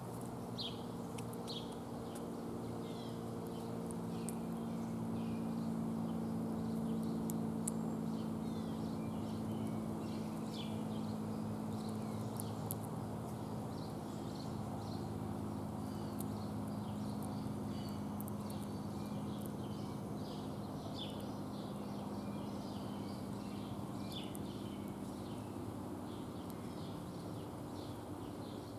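Small birds chirping in short, repeated notes over a steady low mechanical hum, with a few sharp little clicks.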